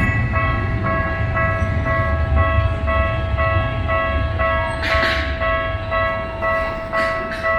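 Japanese railway level-crossing warning bell ringing, an electronic clang repeating about twice a second, over the low rumble of a Tokyu Setagaya Line tram. A short hiss comes about five seconds in, and the bell cuts off near the end.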